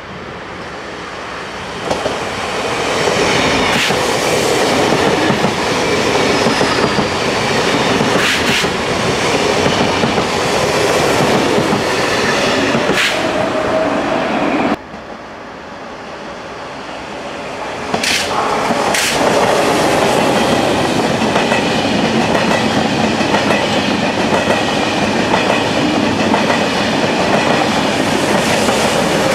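A double-deck TER regional train runs past, its noise building up and its wheels clacking over rail joints. After a sudden cut, the noise builds again as two coupled TGV Duplex high-speed trainsets run past with the same clacking.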